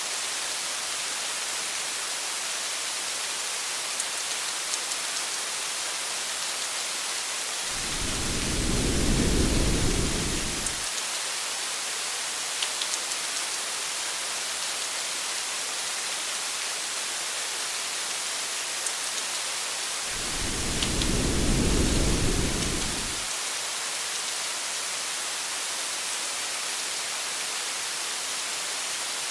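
Steady rain pattering on a car's windshield and roof, a constant hiss with scattered drop ticks. Low thunder rumbles twice, each for about three seconds, about a third of the way in and again about two-thirds of the way in.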